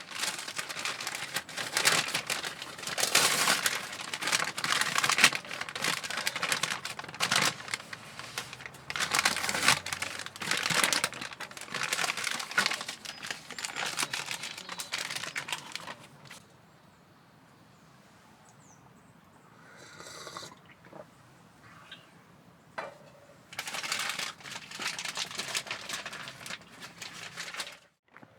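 Irregular crinkling and rustling of handled material in long stretches, with a quiet gap of several seconds after the middle broken only by a few light rustles.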